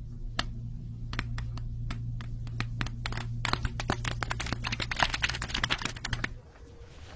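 A series of sharp clicks, a few spaced ones at first, then coming faster and denser into a rapid clatter, over a steady low hum; the clicks stop about six seconds in.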